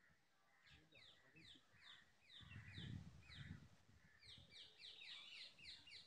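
Faint small-bird chirping: short downward-sliding chirps, a few a second, growing denser near the end. A low rumble about two to three and a half seconds in.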